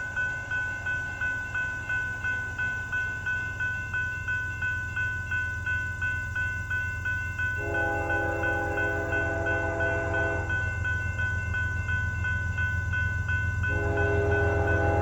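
A railroad grade-crossing bell rings steadily, about two to three strikes a second. The freight locomotive's multi-chime air horn sounds one long blast about eight seconds in and starts another near the end. Under both, the train's low engine rumble grows louder as it approaches.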